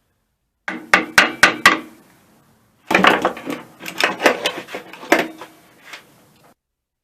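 Hammer blows on the metal parts of an air compressor being taken apart: a quick run of about five ringing strikes, then a longer stretch of irregular knocking and clatter that cuts off suddenly.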